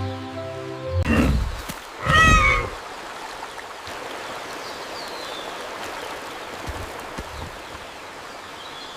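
Two loud animal-like cries about a second apart, the second a wavering, meow-like squeal, from a cartoon creature sound effect. These are followed by a steady background hiss.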